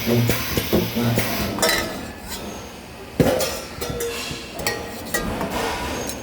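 Sheet-metal parts clinking and knocking as they are handled, with two short low buzzes about a second apart from a spot welder firing.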